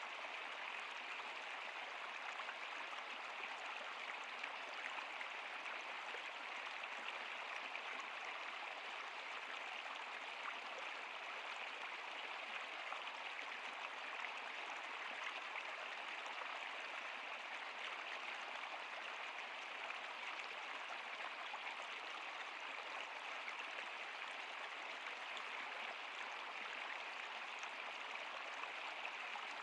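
Stream water flowing over rocks, a steady, unbroken rushing and babbling.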